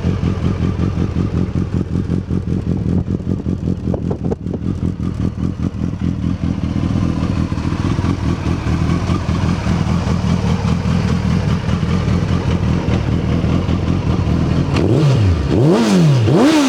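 2004 Suzuki Hayabusa's 1300cc liquid-cooled inline-four idling steadily through dual Yoshimura RS3 exhausts, just after starting. About 15 seconds in, the throttle is blipped about three times, the revs rising and falling quickly each time.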